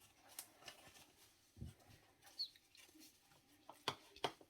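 Faint, scattered clicks and knocks of plates and cutlery being handled, with a low thump about one and a half seconds in and a short high chirp a little later.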